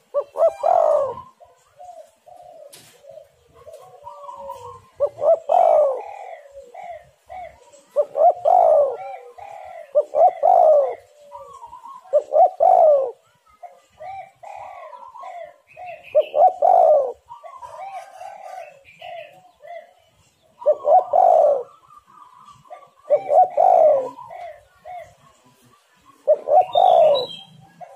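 Spotted doves (tekukur) cooing persistently: loud coo phrases every two to four seconds, with softer coos in between. This is the steady calling used as a lure to set other doves singing.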